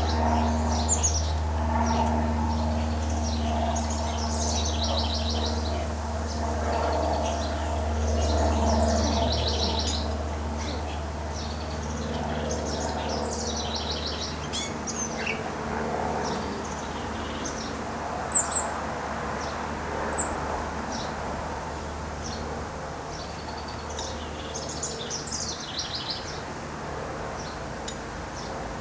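Small birds chirping and twittering in repeated quick trills, with two sharp high notes about two-thirds of the way through, over a steady low hum.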